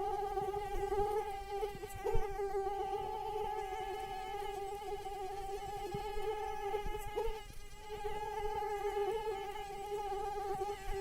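Female mosquito's wingbeat whine: a steady high buzz that wavers slightly in pitch and dips briefly past the middle. There is a soft knock about two seconds in.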